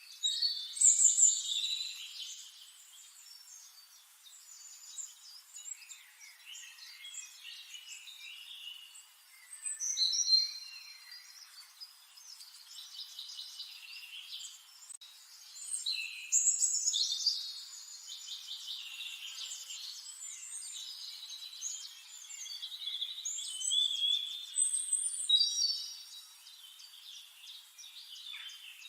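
Several birds chirping and singing, short high-pitched calls and trills overlapping throughout, with louder bursts about a second in, around ten seconds, around sixteen seconds and near twenty-five seconds.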